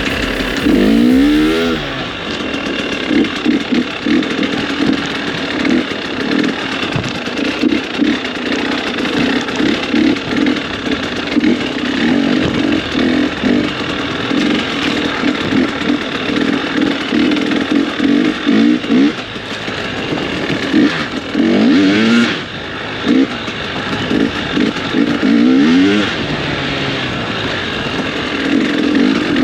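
Motorcycle engine running hard under way, its pitch climbing in quick sweeps as the rider accelerates through the gears, near the start, about two-thirds of the way in and again a few seconds later.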